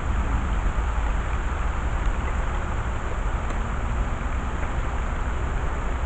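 Steady low rumble with an even hiss over it and no distinct events: constant outdoor background noise.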